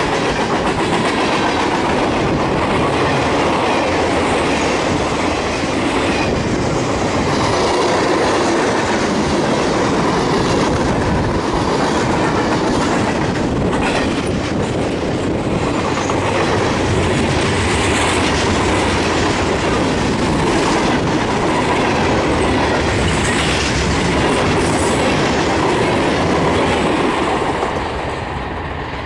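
Freight cars of a speeding freight train rolling past close by: a steady loud rumble and rattle of steel wheels on rail with clickety-clack. Near the end the last car goes by and the sound drops as the train moves away.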